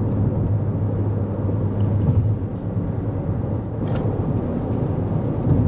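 2024 Toyota Corolla Cross cruising at highway speed, a steady drone of road, tyre and drivetrain noise heard from inside the cabin, with a low hum. A brief sharp tick about four seconds in.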